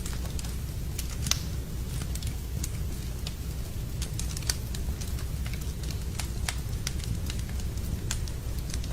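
Wood fire burning in a fireplace, crackling with irregular sharp pops, two of them louder about a second and four and a half seconds in, over a steady low rumble.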